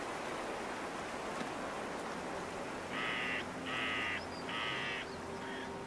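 A bird calling: three loud, harsh calls of about half a second each, a few seconds in, then fainter ones near the end, over a steady background hiss.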